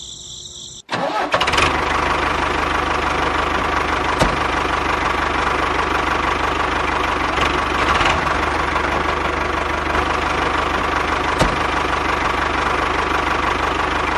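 An engine starts abruptly about a second in and then runs steadily at idle, with a fast, even firing pulse and a few louder clicks.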